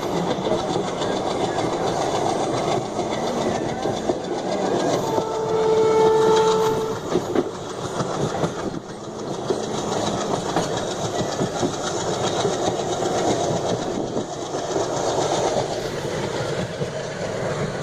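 Steady running noise of a moving train heard from aboard, with rail clatter. About five seconds in, a train horn sounds once for a little under two seconds.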